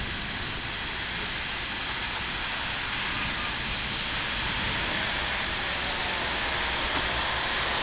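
Steady rain falling during a thunderstorm, a continuous hiss that slowly grows louder.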